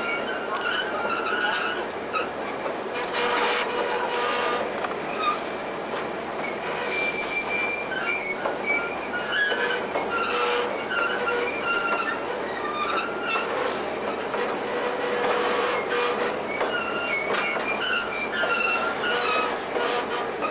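Passenger train running along the track, heard close up from the open step area between cars: steady rumble and rail clatter, with short high squeals from the wheels on the rails coming again and again.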